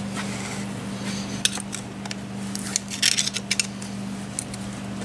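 Small metal transmission parts clicking and clinking as a part is forced by hand into place on the final drive, with a quick cluster of clicks about three seconds in. A steady low hum runs underneath.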